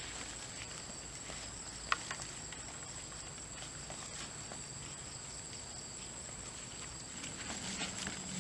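Insects chirring steadily in two high, thin tones, with faint rustling and one sharp click about two seconds in.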